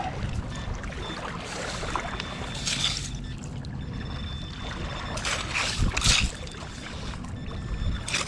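Wind buffeting the microphone: a steady low rumble with a few stronger gusts of hiss.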